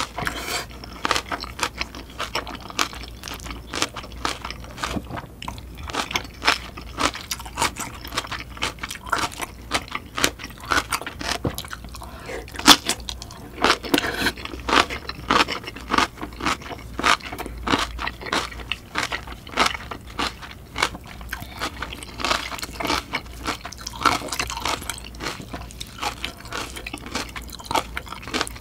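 A person chewing a mouthful of curry with sliced green chili peppers right at the microphone: constant crunching and wet mouth clicks, with one louder crunch about halfway through.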